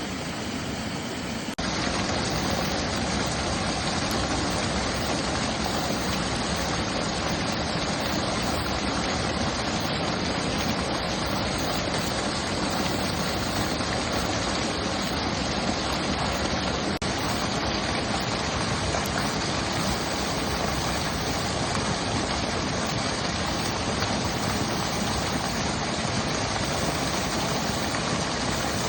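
Mountain stream rushing, a steady wash of water noise. It turns louder about a second and a half in and dips for an instant a little past the middle.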